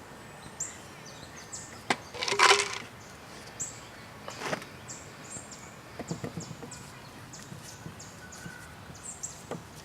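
Paintbrush stroking paint onto a wooden cabinet door: a run of short, hissy bristle swishes. There are a few sharp knocks, and one louder scraping burst about two and a half seconds in.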